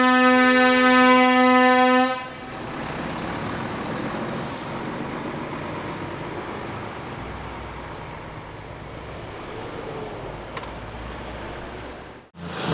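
A truck air horn sounding one steady, held tone that cuts off about two seconds in, followed by a steady rumble of road and engine noise.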